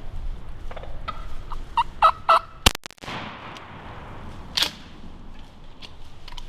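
Wild turkey gobbling about two seconds in, followed almost at once by a single loud shotgun blast that rings on briefly. Wind rumbles on the microphone throughout.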